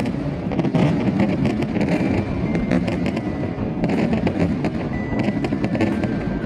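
Fireworks going off without a break: a dense, rapid crackle and popping over a continuous low rumble, with music playing along.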